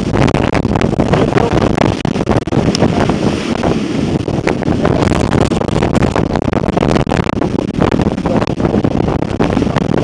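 Strong, gusty wind buffeting the microphone aboard a sailing schooner in heavy weather, a loud steady rush crackling with short gusts.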